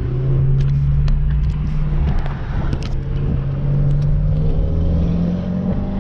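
Car engine running under way, its steady tone climbing slowly in pitch through the second half as the car accelerates.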